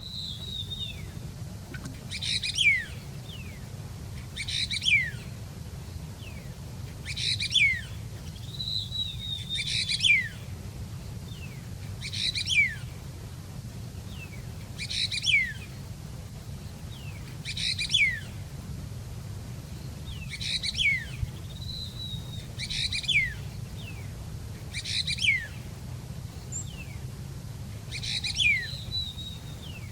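A songbird repeating the same short chirping phrase about every two and a half seconds, each phrase ending in quick downward slurs, with softer thin calls in between. A steady low hum runs underneath.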